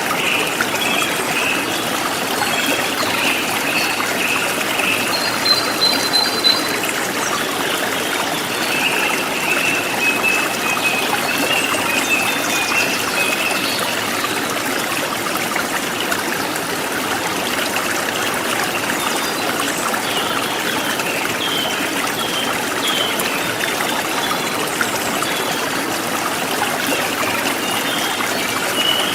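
A forest stream trickling and flowing steadily, with birds chirping and trilling over it throughout; a brief high whistled note comes about five seconds in.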